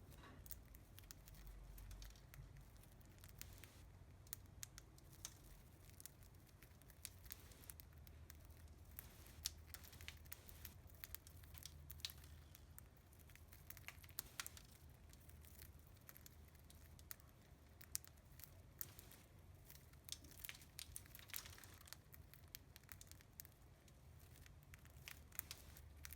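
Budgies pecking and husking millet spray: faint, irregular little clicks and crackles of seeds being cracked, over a low steady hum.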